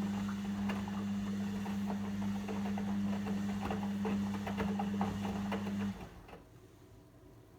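Logik L712WM23 washing machine running with a steady low hum and irregular clicking and sloshing, which stops abruptly about six seconds in.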